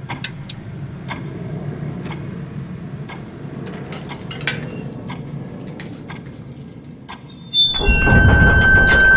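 Film soundtrack sound design: a low rumbling drone with scattered sharp clicks, then near the end a run of descending high tones and a loud swell with a single held tone.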